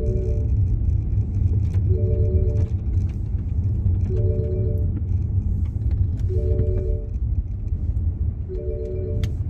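Steady low road and engine rumble from inside a moving car, with a short chime of a few notes sounding together, about half a second long, repeating about every two seconds.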